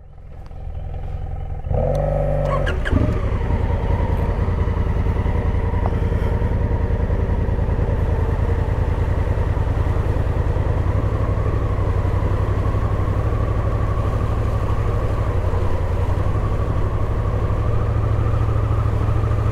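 Adventure motorcycle engine running under way, its sound building over the first two seconds and then holding steady.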